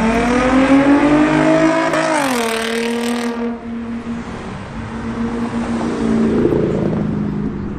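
A car engine accelerating hard, its pitch rising for about two seconds. The pitch then drops suddenly and holds at a steady note, fading slightly.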